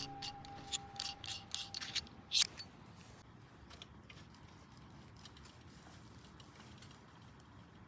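A run of sharp clicks and light ticks, about a dozen in the first two and a half seconds, then only faint background.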